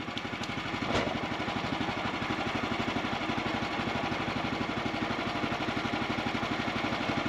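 Small pull-start gasoline engine of a sawmill idling steadily with an even, rapid pulse. There is a light click about a second in.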